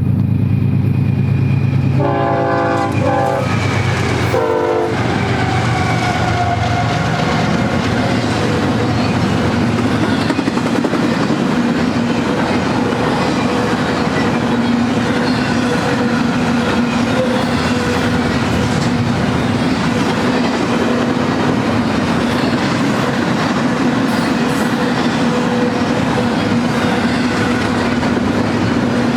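BNSF freight train passing: the diesel locomotives' engines run loudly, then the multi-chime air horn sounds one longer blast about two seconds in and a short one a second or two later. The cars then roll by in a steady rumble, with wheels clicking over the rail joints.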